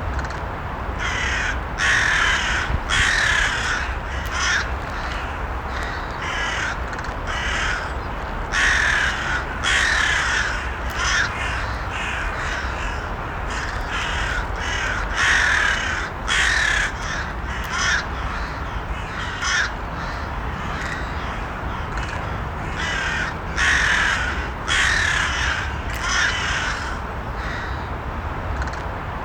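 Crows cawing over and over, the harsh calls coming one after another in quick runs, over a steady low rumble.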